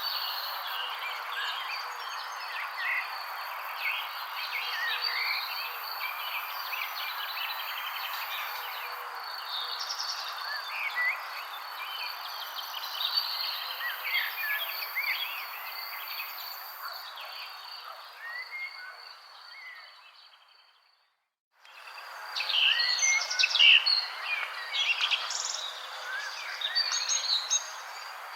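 Chorus of many small birds chirping and twittering over a steady hiss, with a thin, steady high tone underneath. The sound fades out to silence about 20 seconds in and fades back in a second later, with the chirping louder.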